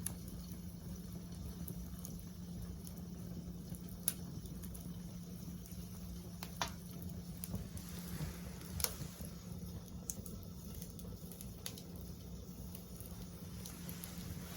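Wood fire crackling in a LOGOS Pyramid TAKIBI L fire pit: a steady soft hiss with scattered small crackles and three sharper pops, at about four, six and a half, and nine seconds in.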